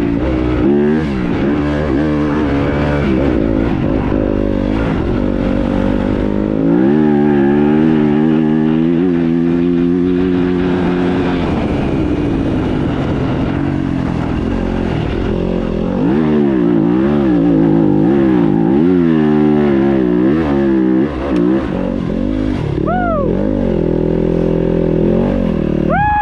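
Dirt bike engine being ridden hard, its pitch climbing and dropping over and over as the throttle is opened and rolled off.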